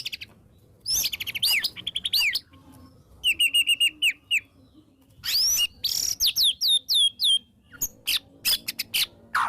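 White-rumped shama singing a varied song in separate phrases: a fast trill, a run of short repeated notes, then a series of falling whistles and sharp clicking notes near the end.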